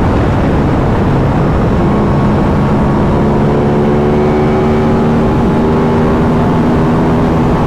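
Aprilia RS 660 parallel-twin engine on its stock exhaust, running steadily at highway speed, under heavy wind rush on the microphone. The engine's tone stands out more clearly from about two seconds in.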